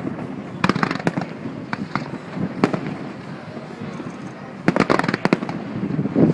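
Fireworks going off, sharp bangs and cracks: a cluster about a second in, a single bang midway, and a quick run of bangs near the end.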